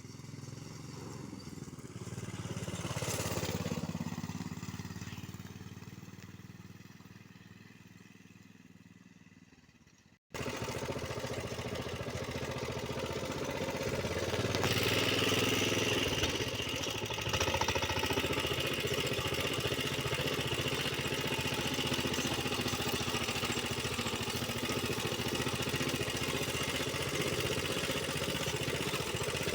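A small vehicle engine passing by, growing louder for a few seconds and then fading away. After an abrupt cut, the engine runs steadily and close, rising slightly a few seconds later.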